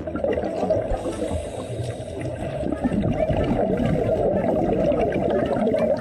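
Water gurgling and bubbling steadily.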